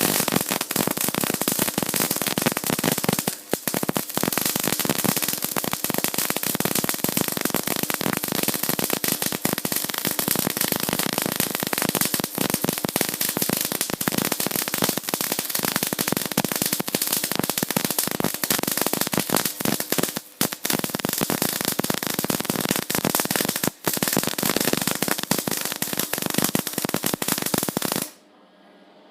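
Electric arc welding a bead: the arc's dense, steady crackle and sizzle, dropping out briefly three times and stopping near the end.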